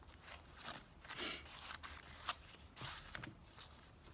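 Scissors cutting through paper in a few short, irregular snips, with light paper handling between them.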